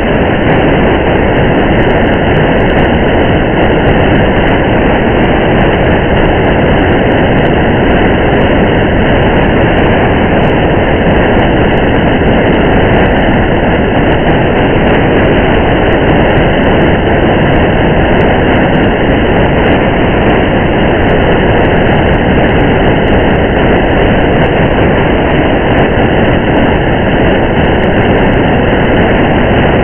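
Steady rain and road noise of a car driving through the rain: an even, unchanging rush with faint scattered drop ticks.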